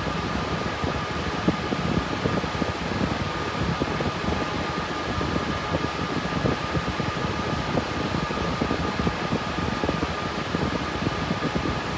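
Cooling fans of an RTX 3060 Ti GPU mining rig running steadily under mining load: an even rush of air with a faint steady whine from the fan blades.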